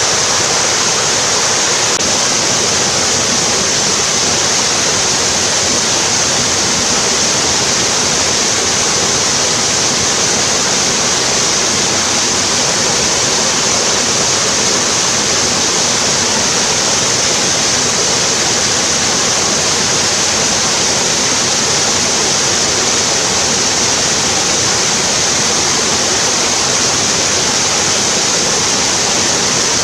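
Mountain stream rushing over rocks and small cascades: a loud, steady rush of water that does not change.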